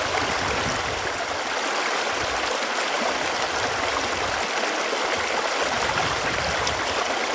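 Running water flowing steadily: a continuous, even rush with no pauses.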